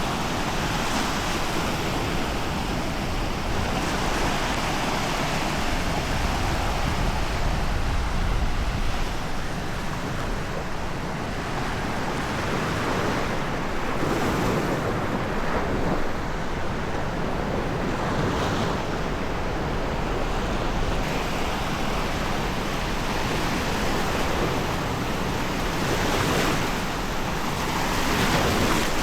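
Sea surf washing onto a sandy beach: a continuous rush that swells louder now and then as waves break, with some wind rumble on the microphone.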